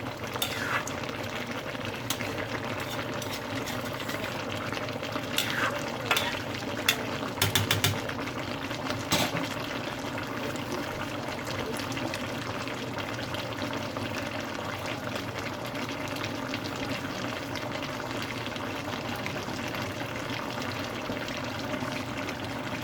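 Chicken curry bubbling in an uncovered pot as it simmers, with a few short knocks or clinks between about five and nine seconds in.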